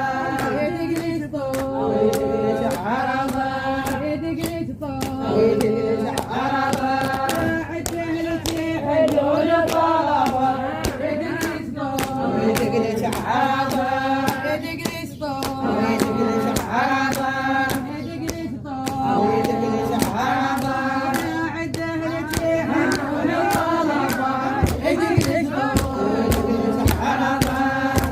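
Iraqi 'arada chant: a sung lead voice with layered choir-like vocals over a steady beat of sharp percussive strokes.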